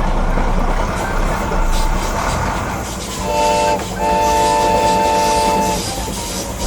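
A horn sounds twice over a steady running noise: a short blast about three seconds in, then a longer one just after.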